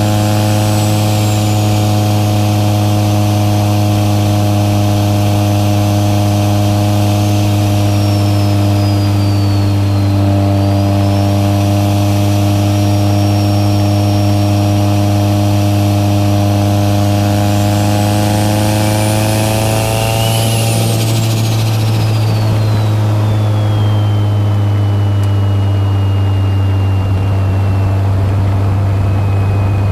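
Mitsubishi Lancer Evolution VII's turbocharged 4G63 four-cylinder heard from inside the cabin, cruising with a steady drone. Over it a high turbo whistle rises and falls, climbing to its highest about two-thirds through and then dropping away.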